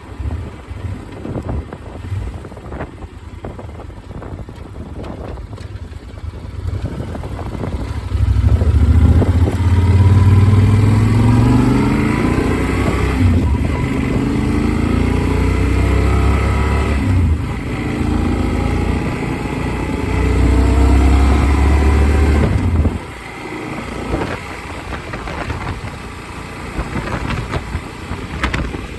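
Motorcycle riding at speed, heard with heavy wind rumble on a helmet-mounted phone microphone. From about 8 seconds in, the engine pulls harder and louder, its pitch climbing several times over as it shifts up through the gears, then it eases off sharply near the end.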